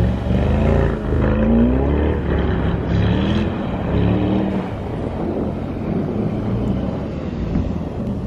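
Mercedes-AMG GT 63 S 4-door's twin-turbo V8 revving as the car drifts on snow, the revs climbing and falling several times as the throttle is worked through the slide.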